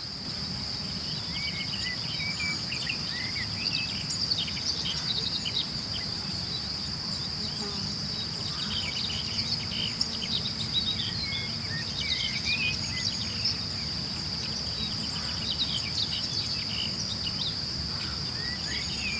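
Evening insect chorus: a steady high-pitched trill of crickets and cicadas, with many short bird chirps and calls over it, all above a low steady rumble.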